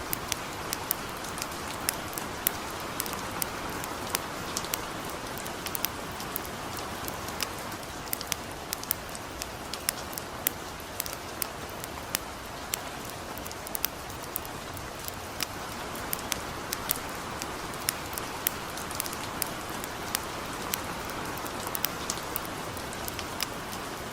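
Steady hiss of light rain with frequent sharp, irregular crackles and pops from a wood campfire.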